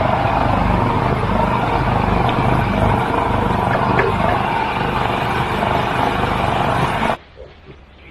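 A machine running steadily and loudly with a fast low pulsing. It cuts off abruptly about seven seconds in.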